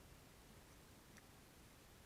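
Near silence: faint steady hiss, with one tiny click about a second in.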